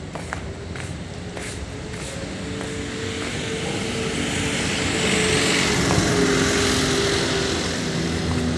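A motor vehicle's engine running, growing louder toward the middle and easing off slightly near the end, with a few light clicks near the start.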